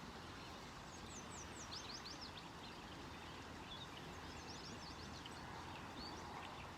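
Songbirds chirping: quick runs of short, high, falling notes about a second in and again around four to five seconds, over a steady low rush of creek water.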